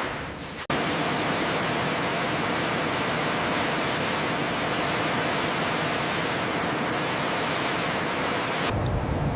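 A loud, steady rushing hiss. It starts abruptly about a second in and cuts off near the end, where a low rumble with a few faint clicks takes over.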